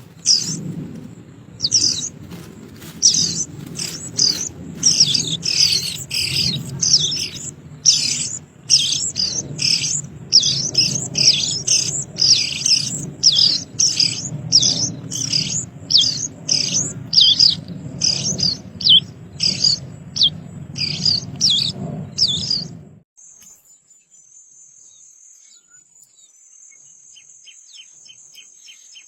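A bird chirping over and over, short high calls about one or two a second, over a low background rumble. About 23 seconds in the chirping and rumble stop suddenly, leaving only a faint steady high-pitched whine.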